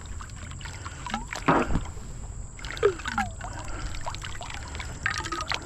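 Scattered knocks, clicks and scrapes in a kayak as a pulled-up metal pipe, stuck to a magnet-fishing magnet, is handled. One heavier knock comes about a second and a half in.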